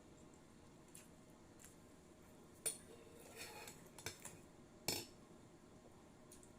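Cutlery clinking and scraping against a plate while eating: a few light clicks, two sharper clinks a couple of seconds apart, and a short scrape between them.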